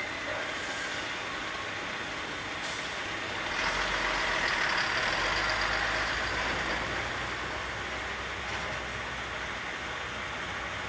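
Container truck on the move: steady engine and road noise. About three and a half seconds in it swells louder for a few seconds, then eases back.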